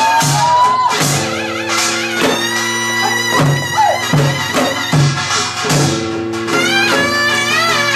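Korean traditional folk music for deotbaegi dance: a wavering, reedy wind melody over a steady drum beat of about two strokes a second, with ringing metal percussion.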